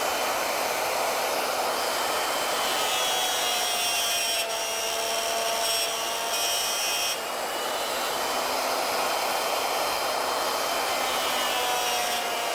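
Router motor running steadily with a 3/8-inch two-flute straight cutter, milling chip-relief grooves into wood. Its whine shifts slightly in pitch a couple of times as the cut loads it.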